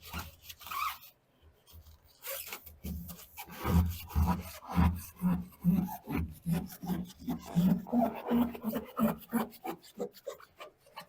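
Repeated rubbing strokes, about two a second, of sound deadener mat being pressed and smoothed down onto the steel floor pan of a VW Beetle. A few faint strokes come first, and the steady run of rubbing starts about two seconds in.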